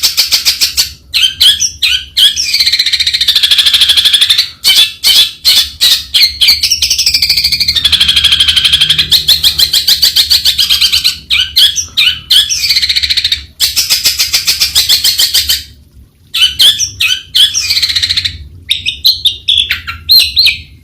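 Long-tailed shrike singing: quick runs of short chattering notes alternating with long, harsh grating phrases that dip and rise in pitch, repeated several times.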